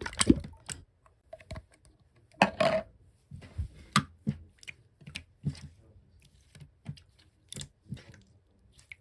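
Yellow slime being pressed and squished by hand, giving irregular sticky clicks and small pops, with a longer crackling run about two and a half seconds in.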